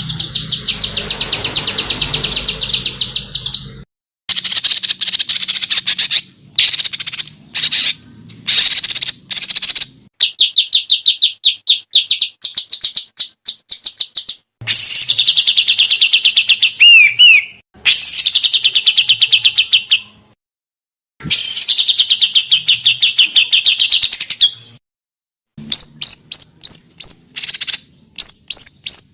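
Songbird calls from a masteran training recording: fast runs of short, high repeated chirps and trills, in several spliced sections that cut in and out abruptly with brief silences between them.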